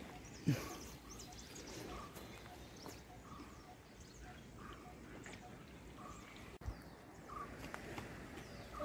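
A bird calling one short note over and over, about every two-thirds of a second, over quiet outdoor background, with a single loud thump about half a second in.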